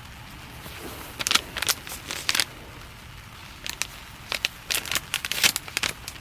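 Crinkling and crackling of a wrapper or packet being handled, in two spells of sharp crackles, one about a second in and a longer one from about four seconds in.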